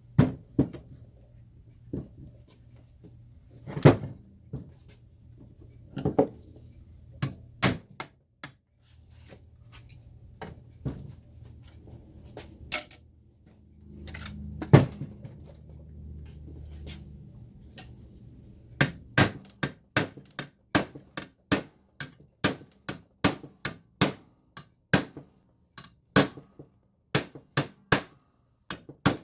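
Hammer blows on the Leslie 122 amplifier's bent metal chassis: a few separate strikes at first, then a steady run of about two a second in the last ten seconds.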